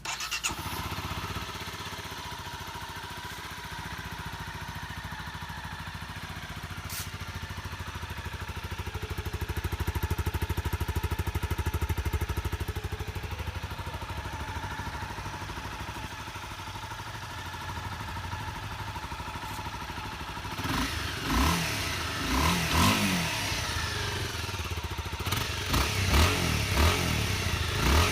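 Honda CBR250R's single-cylinder engine running steadily, then revving up and down over the last several seconds.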